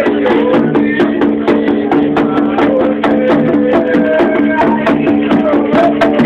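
Ceremonial music for Xangô: percussion playing a fast, dense beat under voices singing a chant.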